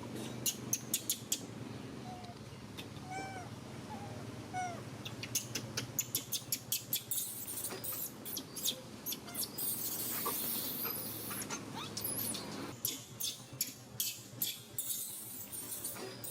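Baby monkey's short high squeaks and chirping calls, many in quick runs, with a stretch of hiss in the middle.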